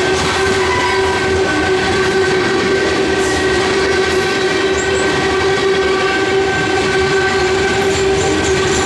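Covered hopper cars of a freight train rolling past close by, wheels running on the rails, with a steady tone held throughout.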